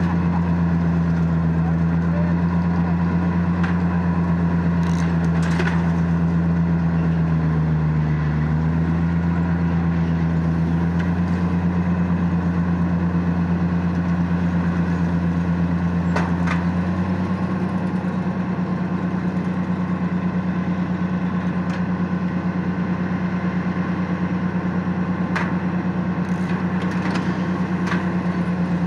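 Tractor engine running steadily during hay baling. Its note dips briefly about eight seconds in and changes about seventeen seconds in, with a few sharp clacks over the drone.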